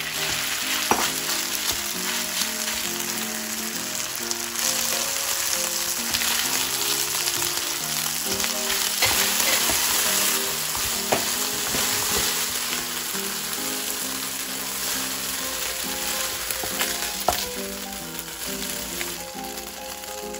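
Marinated pork strips sizzling in hot oil in a nonstick wok while being stir-fried with a wooden spatula, with a few sharp taps of the spatula against the pan. The sizzle eases near the end.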